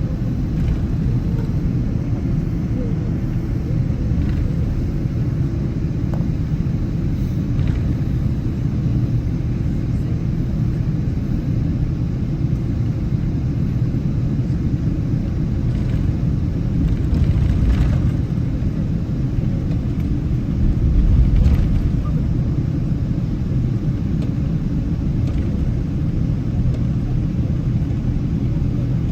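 Steady low rumble of a Boeing 777's cabin noise, with a few faint ticks and two brief swells in loudness near the middle.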